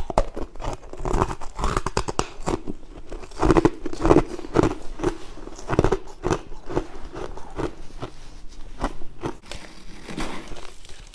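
Bites of frost being crunched and chewed in the mouth: a quick, irregular run of crisp crunches.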